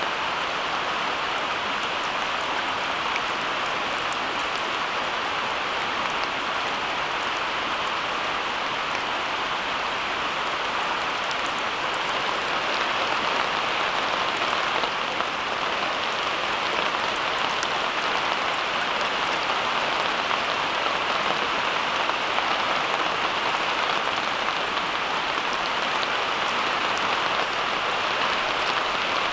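Steady rain falling: an even hiss with fine scattered drop sounds, unchanging throughout.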